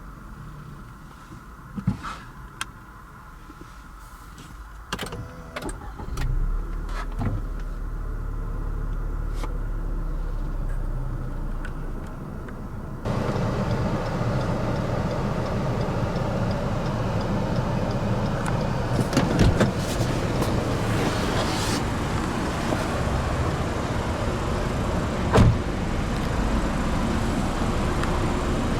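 Inside a car: a few switch clicks, then a small electric motor running steadily for about six seconds. About thirteen seconds in, it gives way abruptly to a louder steady rushing noise.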